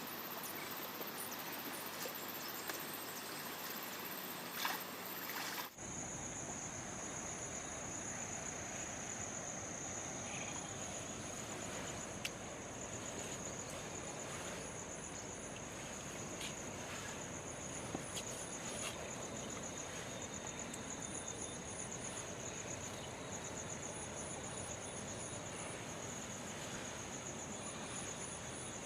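Crickets and other insects chirping steadily in a high, pulsing band over a broad wash of outdoor noise. The background changes abruptly about six seconds in.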